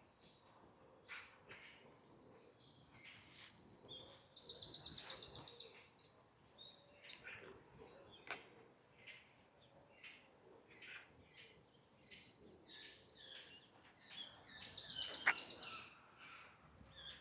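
A songbird singing twice, each phrase a fast high trill followed by a slightly lower trill, lasting about three seconds. Scattered short chirps and calls from other small birds run around it.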